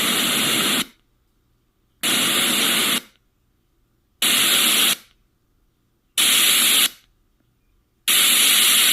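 Housbay portable sound machine's speaker playing white noise in five short bursts, each under a second long with about a second of silence between, as it steps through its white-noise settings toward the higher-pitched, more trebly ones.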